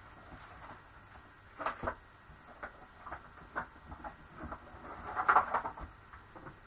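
Plastic alcohol marker pens clicking and clattering against each other as a hand rummages through a box of them, with a busier, louder clatter about five seconds in.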